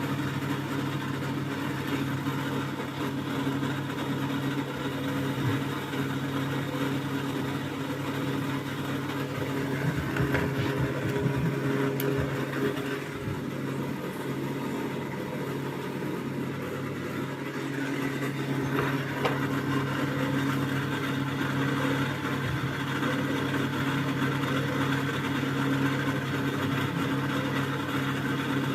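Thomson washing machine running with a steady motor hum, with a few low thuds from the drum a little past the middle.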